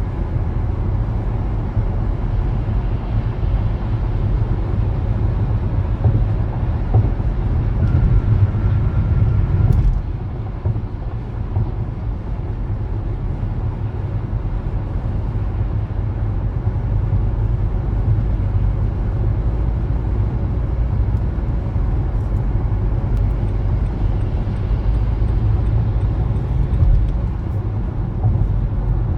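Steady low rumble of a car being driven: tyre and engine noise. It grows a little louder about eight seconds in, then eases off at about ten seconds.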